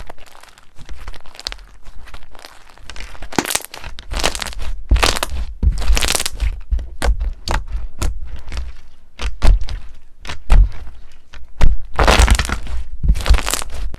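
Slime being squeezed and pressed by hand, giving a fast irregular run of sharp clicks and pops, with several longer squishing bursts a few seconds apart.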